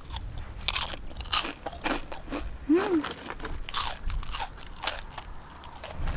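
Crispy fried chicken being bitten and chewed: a string of crunches from the crisp coating.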